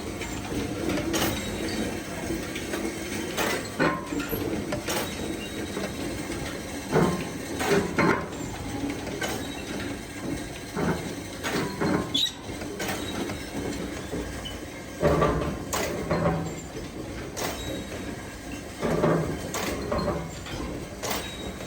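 Workshop machinery running with a steady rumble, with irregular metallic clanks and knocks every second or two.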